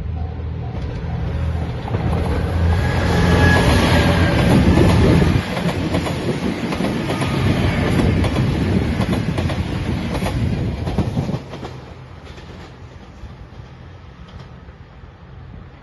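JR Shikoku 2700 series diesel limited express train passing close by, its engines running and its wheels clattering over the rails. The sound builds over the first few seconds, stays loud, then drops off suddenly about eleven seconds in.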